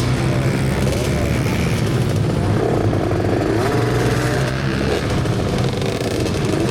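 Dirt bike engines running and revving, their pitch rising and falling over a steady low drone.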